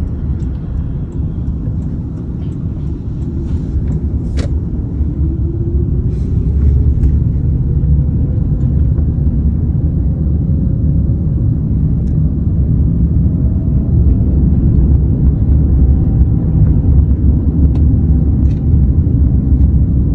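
A vehicle running with a heavy low rumble; a faint whine rises slowly in pitch over the middle of the stretch, as when gathering speed.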